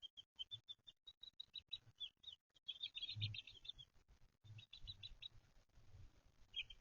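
Young chicks peeping faintly: quick runs of short high peeps, several a second, thickest about three seconds in.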